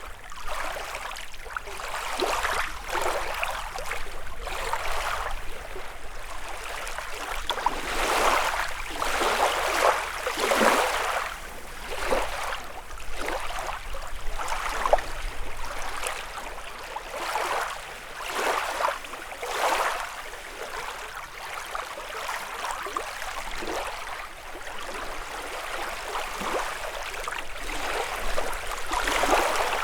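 Small lake waves lapping and washing onto the shore, a swell of splashing every second or two, some louder than others.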